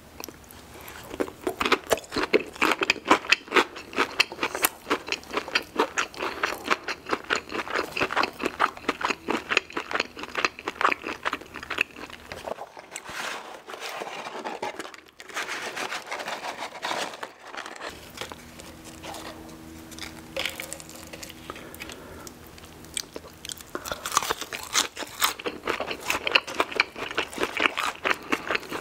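Close-miked chewing and crunching of a breaded fried chicken nugget with mac and cheese: rapid crisp crunches that fade to a quieter stretch for several seconds in the middle, then pick up again near the end.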